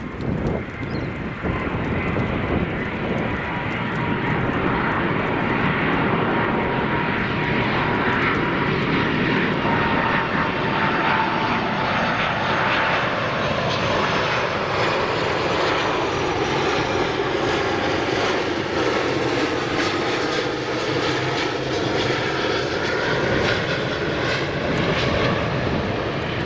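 Airbus A330-300 twin jet engines on landing approach: a steady roar with a whining tone that drifts down in pitch as the airliner passes.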